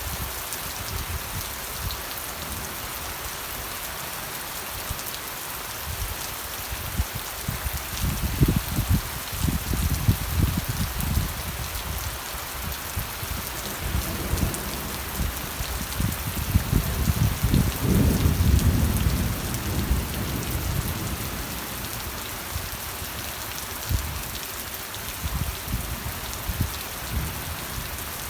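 Steady rain pattering, with low rumbles that swell and fade twice in the middle, the second one the loudest.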